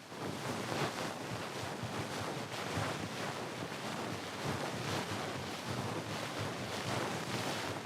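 Ear pick scraping and rubbing close against the microphone, a continuous dense scratchy rustle with many fine strokes.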